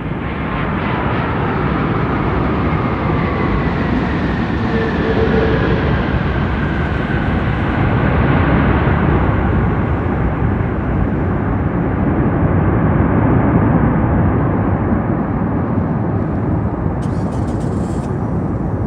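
Airbus A330-300's Rolls-Royce Trent 700 turbofans: a loud, steady jet roar on arrival, with a thin whine that slowly falls in pitch during the first several seconds.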